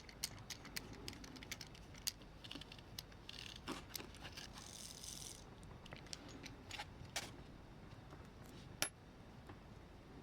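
Small metal parts clicking and clinking as they are handled, irregular light taps, with a brief hiss about three seconds in.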